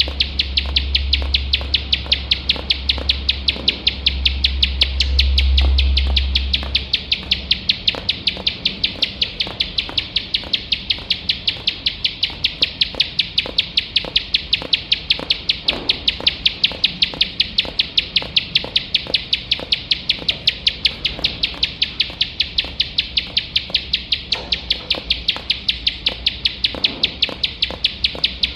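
Ciblek sawah prinia singing nonstop in the rapid-fire 'nembak' style: a steady string of sharp ticking notes, about four a second, over a continuous high buzz. A low rumble sits under the first seven seconds or so.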